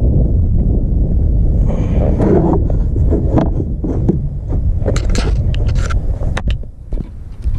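Wind rumbling on the microphone, with a run of clicks, knocks and rustling handling noises from about two seconds in.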